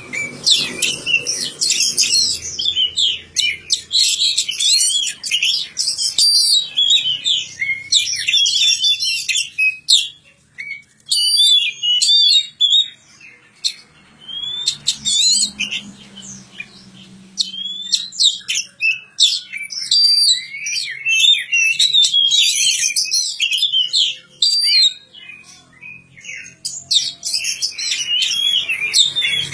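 Oriental magpie-robin (kacer) singing a fast, varied song of high whistles and chirps in near-continuous phrases, with a couple of short breaks.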